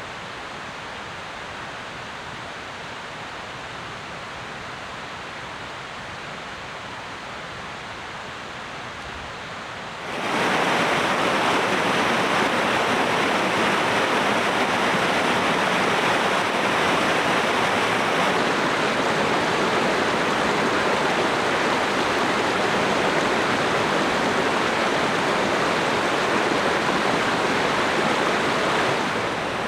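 Steady rain, a continuous even hiss that suddenly gets much louder about ten seconds in.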